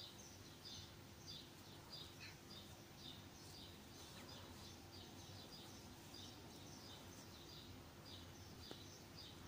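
Near silence: faint room tone with a small bird chirping over and over in the background, about two short chirps a second.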